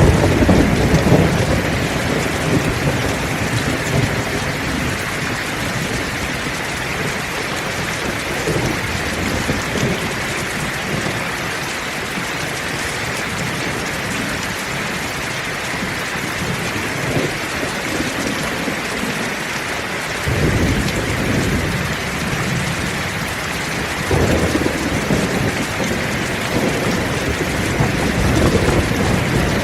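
Heavy rain pouring steadily, with low rolls of thunder: one near the start, and another that comes in suddenly about twenty seconds in and rumbles on, swelling again near the end.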